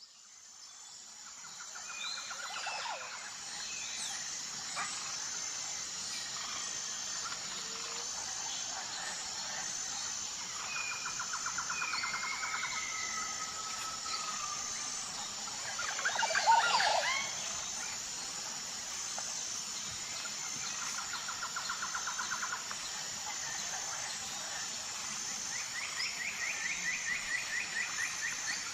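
Tropical forest ambience fading in: a steady high-pitched insect drone with an even pulsing in it, over which birds call, with several short trills, one loud sweeping call about halfway through, and a faster trill near the end.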